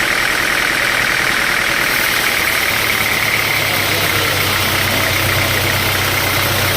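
Sawmill machinery running steadily, with a fast pulsing tone in the upper middle range; a low hum joins in about three seconds in.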